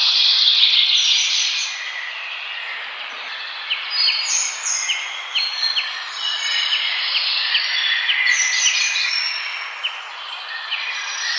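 A chorus of forest birds calling and singing at once, with overlapping chirps and whistles. About four seconds in comes a run of short, sharp notes, repeated roughly twice a second for a few seconds.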